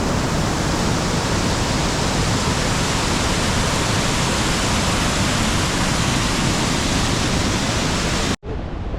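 Rhine Falls' falling water: a loud, even rush of water with no let-up. It cuts off abruptly near the end, and a quieter rushing takes over.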